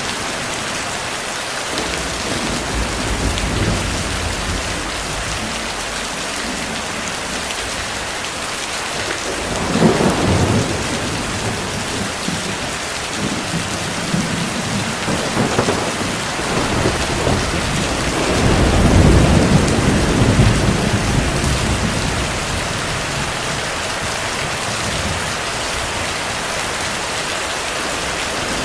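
Steady heavy rain with distant thunder: a short rumble about a third of the way in and a longer, louder rolling rumble about two-thirds of the way in.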